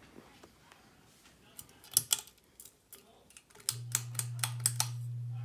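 A run of sharp clicks, then the 42-inch Littleton ceiling fan's motor switches on with a steady low hum about two thirds of the way in, with a few more clicks over the hum.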